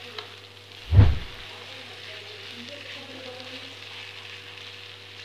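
Green tomato stir-fry sizzling steadily in a wok while a spatula turns it. A single loud, dull thump about a second in stands out above the sizzle.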